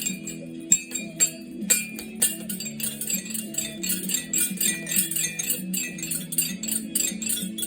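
Small metal bells or chimes jingling and clinking in quick, irregular bursts, over a low held melody that changes note every half second or so.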